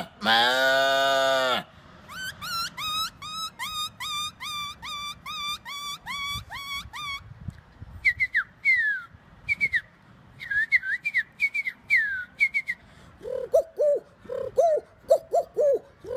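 A man imitating animal calls with his voice: a long drawn-out call ends about a second and a half in, then a run of quick whistled bird chirps, two to three a second. After a short pause come sharp falling whistles, and near the end low, short cooing notes repeated like a pigeon or dove.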